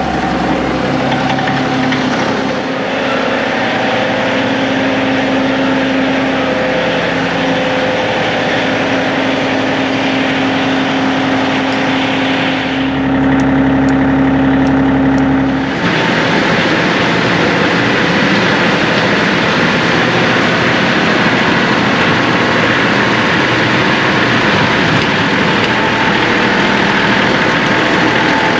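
John Deere 2038R compact tractor's three-cylinder diesel engine running steadily at idle just after starting. About two-thirds of the way through, its sound shifts abruptly and becomes rougher and noisier.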